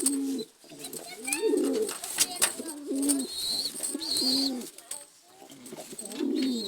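Domestic pigeons cooing repeatedly in a loft, several low coos following one another about once a second, with some higher chirps and a few sharp clicks among them.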